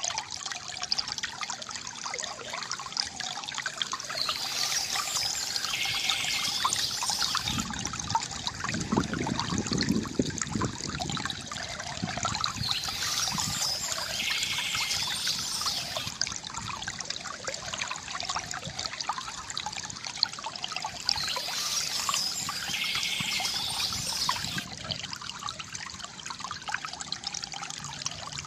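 River water gurgling and trickling steadily, with a deeper gurgle about a third of the way in. Birds chirp softly, returning every few seconds.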